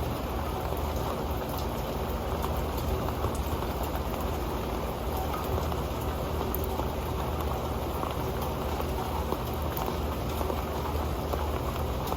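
Rain falling steadily onto an old pan: a dense patter of many small drop ticks over an even hiss.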